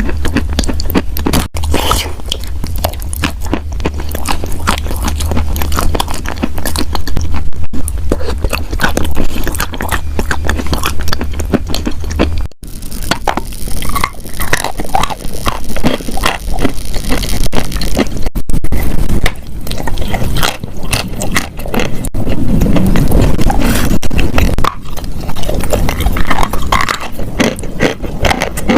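Close-up crunching and chewing of wet chalk: dense, crackly bites and scrapes, broken by several sudden cuts, with a low hum under the first half.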